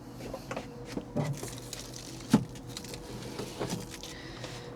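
Scattered knocks, bumps and clicks of someone shifting about in a small camper cabin, with one sharper knock about two seconds in, over a faint steady hum.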